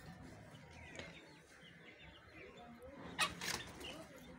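Birds chirping in short scattered calls, with one short loud noisy burst about three seconds in.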